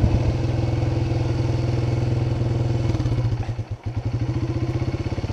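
Honda CRF trail bike's single-cylinder four-stroke engine idling with an even, steady pulse, briefly dropping in level about three and a half seconds in.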